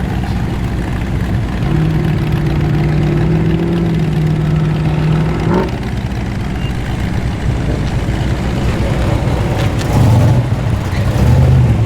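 Muscle car engines rumbling as cars roll past at low speed. One engine holds a steady note for about four seconds and then drops off, and a louder engine rumble passes near the end.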